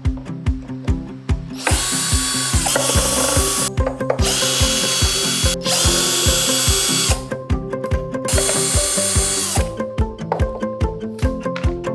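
Power drill running in four bursts of a second or two each, its motor pitch dropping as each run stops, over background music with a steady beat.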